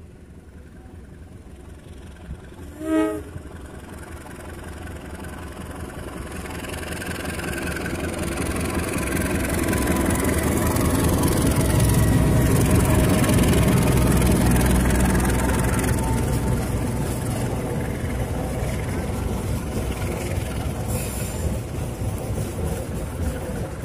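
A CC 204 diesel-electric locomotive passing with a passenger train. A short horn blast comes about three seconds in. The engine rumble and wheel noise then build to their loudest as the locomotive goes by close, around halfway through. The coaches roll past steadily on the rails after that.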